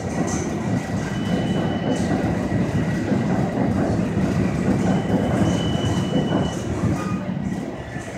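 A passenger train running past on the tracks, a steady heavy rail rumble with short high wheel squeals, easing off near the end.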